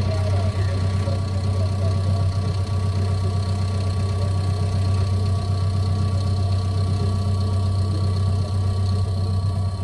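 Caterpillar bulldozer's diesel engine running steadily: a constant low drone with thin steady whines above it.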